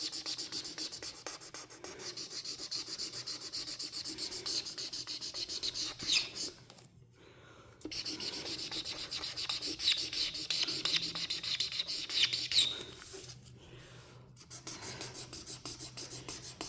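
Marker nib rubbing across paper in fast, even back-and-forth coloring strokes, with a short break about seven seconds in and a few sharper squeaks.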